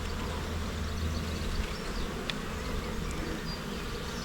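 Honey bees buzzing steadily around an open hive box as its frames are lifted for inspection.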